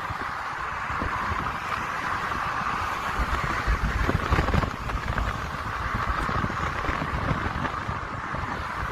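Wind buffeting the microphone in irregular gusts, strongest about four seconds in, over a steady hiss of road traffic.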